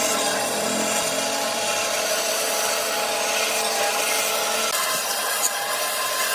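A woodworking tool working solid wood, running continuously with a shift in tone a little under five seconds in.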